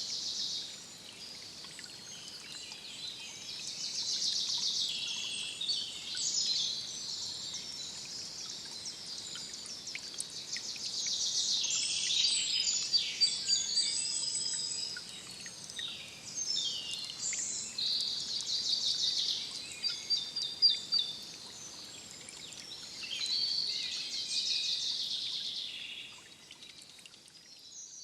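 Several songbirds singing, with overlapping bursts of chirps and rapid trills over a faint background hiss. The song fades out near the end.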